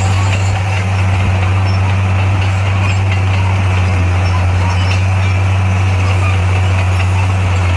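Heavy diesel engine of a crawler bulldozer running steadily at a constant, low pitch.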